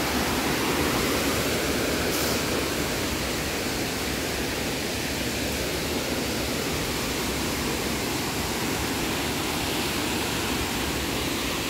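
Waterfall, water pouring down in a steady rush.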